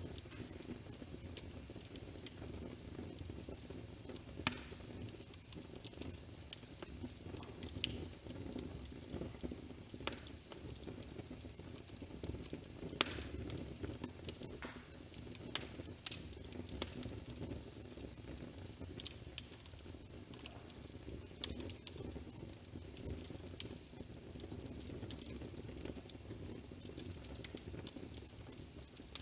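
Wood fire crackling in a fireplace: a steady low rumble with scattered pops and crackles.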